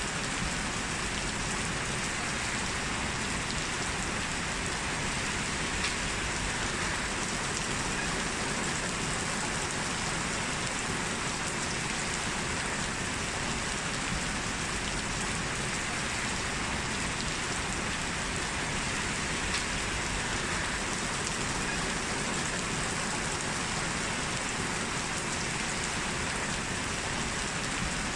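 Heavy rain falling steadily: an even, unbroken hiss of rain with no thunder, and a couple of slightly louder drops ticking now and then.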